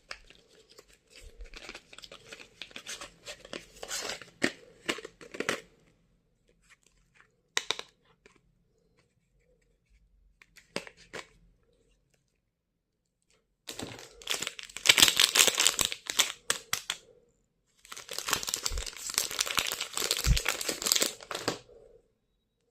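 Stationery packaging being unwrapped by hand. Light crinkling and small clicks run through the first five seconds or so. After a quieter stretch with a few isolated clicks, there are two long, loud bouts of the wrapper being torn and crinkled, beginning about fourteen and eighteen seconds in.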